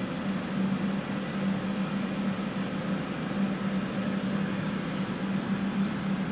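Electric fans running steadily with a low hum, set up to clear soldering fumes.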